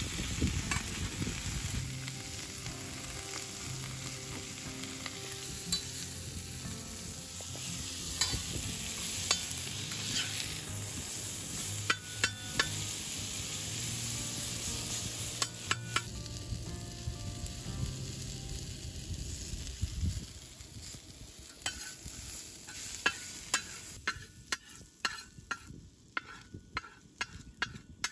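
Sliced onions and green peppers sizzling on a wide, flat steel pan while a metal spatula and spoon stir and scrape them, with sharp clinks of metal on metal. Near the end the sizzle dies down and the scraping clinks come quicker.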